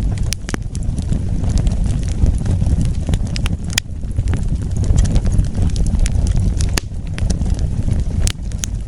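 Wood fire burning, with a steady low rumble of flames and frequent sharp crackles and pops at irregular moments.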